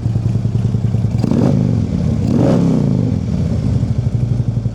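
Harley-Davidson CVO Ultra Classic's Screaming Eagle 110 V-twin idling through a Vance & Hines X-pipe exhaust and mufflers, with two quick throttle blips, about one and two and a half seconds in, where the pitch rises and falls back.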